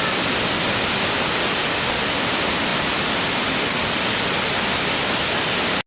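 Natural waterfall: a steady, dense rush of falling water. It cuts out for an instant near the end.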